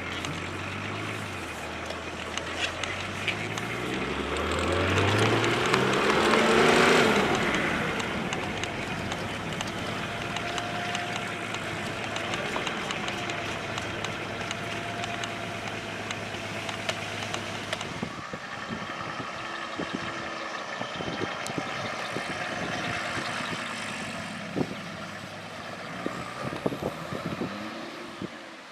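BMW E34 525tds turbo-diesel straight-six running, revving up to its loudest about six seconds in and then settling back to a steady run. After about eighteen seconds its note gives way to a noisier sound with scattered clicks.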